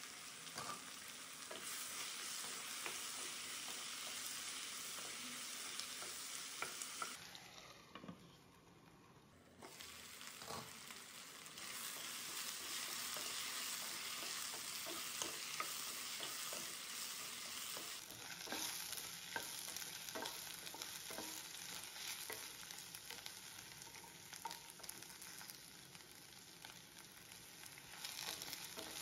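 Sliced ivy gourd sizzling as it fries in oil in a kadai, stirred with a wooden spatula that scrapes and taps against the pan. The sizzle drops for a couple of seconds about a quarter of the way in.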